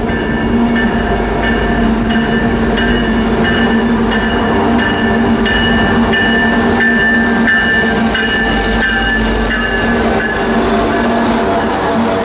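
Freight train led by diesel locomotives passing close by: steady engine hum and rumble of wheels on rail, with thin high steady tones running over it.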